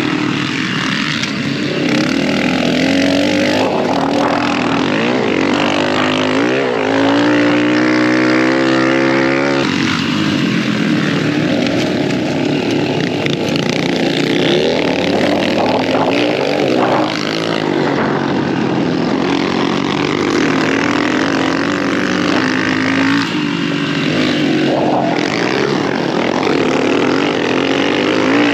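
Dirt bike engine revving up and down on a motocross track: it climbs in pitch under throttle, then drops sharply as the rider shifts or backs off, several times over. Wind noise rushes across the helmet-mounted microphone underneath.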